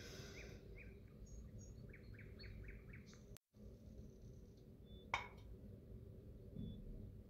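Faint chirping of a small bird, with a quick run of about six short chirps around two seconds in. About five seconds in, a single sharp clink of a serving spoon against a plate.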